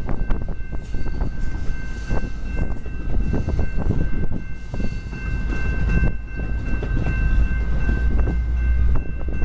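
Commuter train passing with a heavy low rumble and rapid irregular clicking of wheels over the rails, under a faint steady high whine.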